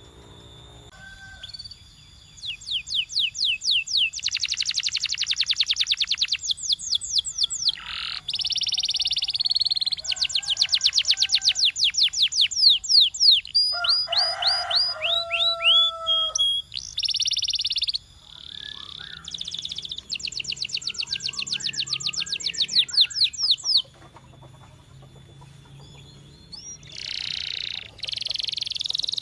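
Canary singing: phrases of fast repeated chirps strung into trills, with short pauses between phrases and a lower, rolling passage about halfway through.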